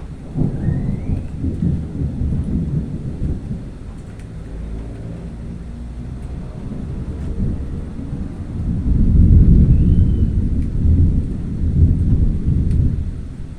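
Thunder rumbling in two long rolls, the second one louder.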